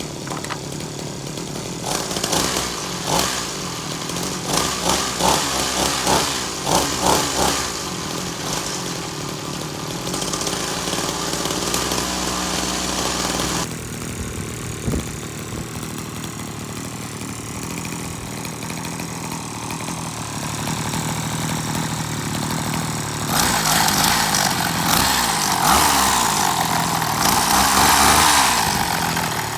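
Small two-stroke grass-trimmer engine running with a buzzing note, its pitch going up and down as it revs, most of all in the last few seconds.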